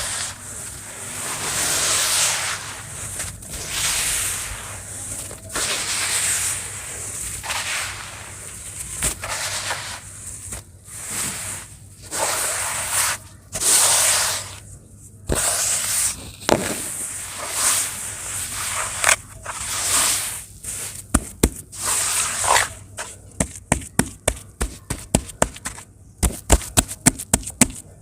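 Pressed sand shapes crumbling in water, with a hissing, fizzing rush that swells and fades about every two seconds. Near the end a quickening run of sharp clicks or taps takes over.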